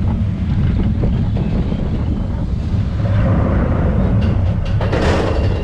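Roller-coaster train rumbling along its track, with rushing wind buffeting the microphone and a brief louder rush of air about five seconds in.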